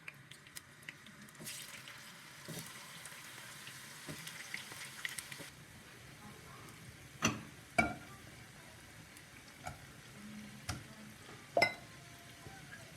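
Food sizzling in a hot pan for the first five seconds or so, then five sharp knocks, the loudest near the end.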